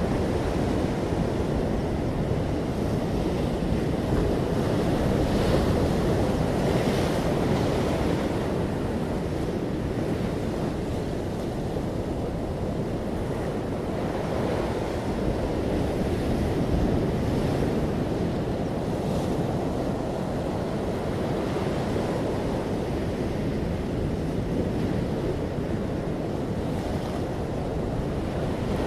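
Ocean surf: waves breaking and washing ashore in a continuous rush that swells and eases every few seconds.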